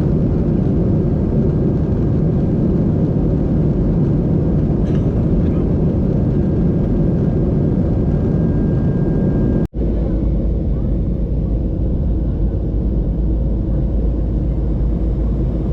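Steady low rumble of a moving vehicle. It cuts out for an instant about ten seconds in, then carries on with a deeper low drone.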